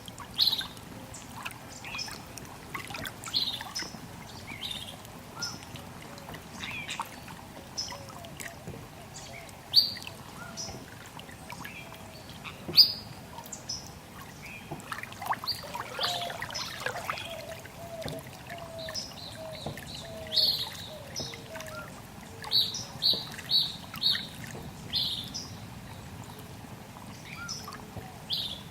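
Wild birds calling: short high chirps scattered throughout, a cluster of quick repeated chirps in the last third, and a run of short low notes in the middle. Underneath runs a steady trickle of water.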